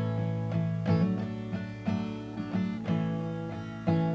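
Acoustic guitar strummed in chords, a fresh stroke roughly every half second to second, as an instrumental break between verses of a folk song.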